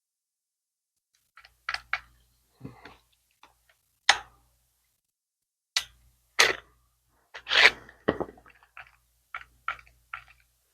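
Scattered short clicks and knocks from an electric carving knife being handled while it is readied to cut foam, with pauses between them; the motor is not running.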